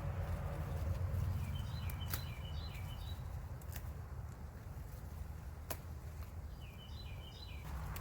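A songbird singing two short phrases of quick chirping notes, about two seconds in and again near the end, over a steady low rumble.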